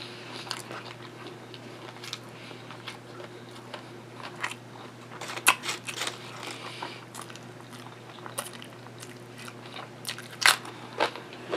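Close-up chewing of a mouthful of sub sandwich, broken by sharp crunches of potato chips being bitten, the loudest about five and a half seconds in and again near the end.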